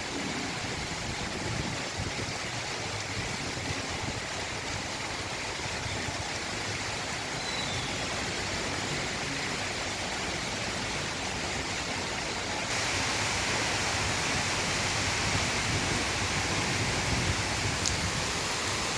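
Heavy rain pouring down, a steady hiss that turns abruptly louder about two-thirds of the way through.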